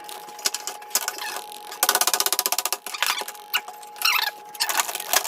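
Server hardware being worked apart by hand: scattered clicks and scrapes of metal and plastic parts, with a fast rattling run of clicks about two seconds in that lasts about a second.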